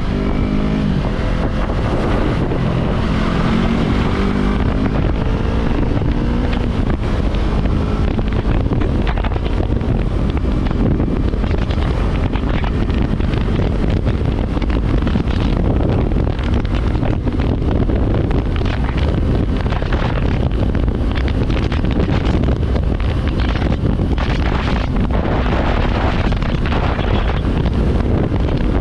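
Yamaha R3 motorcycle's parallel-twin engine under way, its pitch climbing over the first several seconds as it accelerates, then largely buried under heavy wind noise rushing over the microphone at speed.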